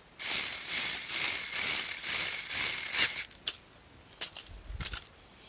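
Small loose kit parts such as screws and washers rattling together as they are shaken or sorted through, for about three seconds, followed by a few light clicks.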